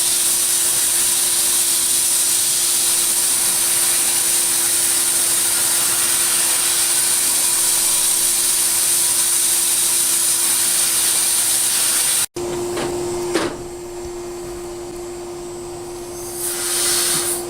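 Glass-bead blast cabinet nozzle hissing steadily as it blasts a vise part, over a steady hum. The hiss cuts off abruptly about twelve seconds in, leaving the hum, and a short burst of blasting comes near the end.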